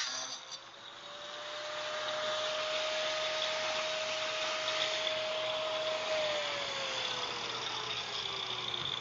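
Angle grinder with a diamond blade cutting firebrick: a steady motor whine over a gritty cutting hiss, the whine sliding down in pitch from about six seconds in while the cutting noise carries on.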